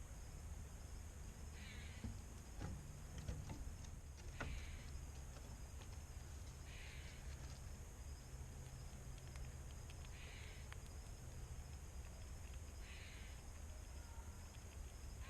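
Faint animal calls outdoors: a short, harsh, falling call repeats about every two to three seconds over a low steady hum. A few sharp clicks come in the first five seconds.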